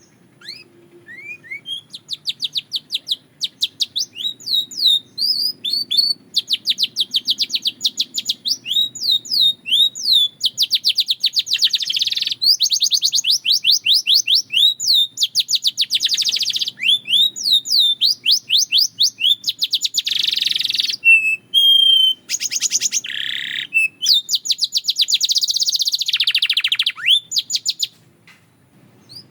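Belgian canary singing a long song of fast trills and runs of rapidly repeated high notes, broken by short pauses. It begins with a few rising notes about a second in and stops shortly before the end.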